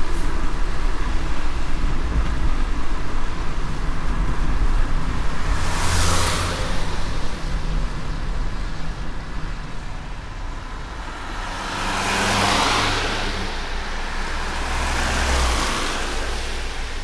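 A car driving in light rain on a wet road: a steady low road rumble under an even hiss. Three swelling whooshes come through, one about six seconds in and two near the end, like other vehicles passing.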